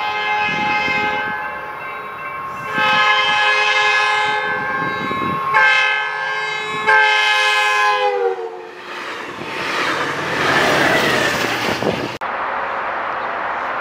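A locomotive's multi-chime air horn sounds a long, a long, a short and a long blast, the standard grade-crossing signal, and the last blast drops in pitch as the train passes. After that comes the loud rush of the train going by, which changes abruptly to a steadier noise about twelve seconds in.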